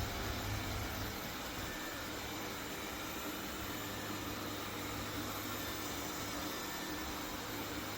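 Tikom L8000 Pro robot vacuum running, a steady even whirring hiss over a low hum.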